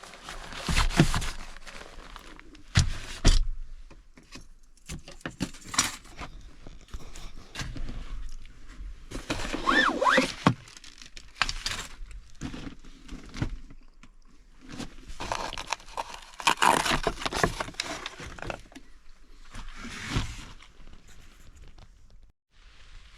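Objects being handled: irregular rustling, scraping and clattering with a few sharp knocks.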